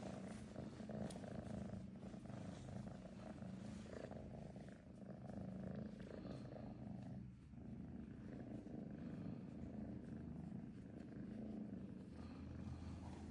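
Kitten purring steadily, a low continuous rumble that swells and eases in a slow rhythm.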